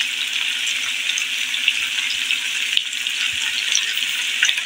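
Cubed potatoes frying in a little oil in a karahi: a steady sizzle with small crackles throughout, as they are turned with a wooden spatula.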